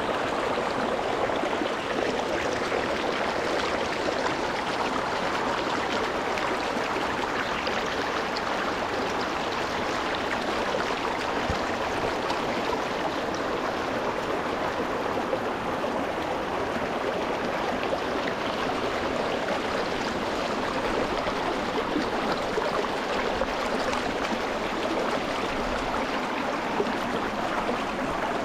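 A shallow rocky mountain stream running over stones, heard close to the water: a steady, dense rush and babble of flowing water.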